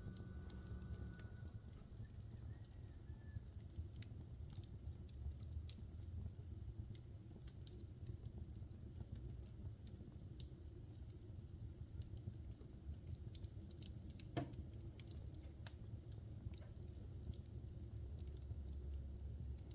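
Logs burning in a wood fireplace: irregular small crackles and pops over a low steady rumble of the flames, with one louder pop about three-quarters of the way through.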